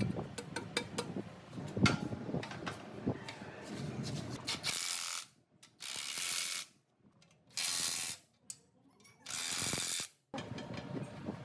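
Metal parts clicking and clanking as they are worked by hand, then four short bursts of hissing with silent gaps between them, then more clattering near the end.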